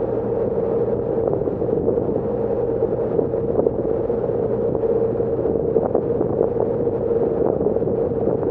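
Passenger ferry's engines running steadily while underway: a constant drone with a steady hum over it.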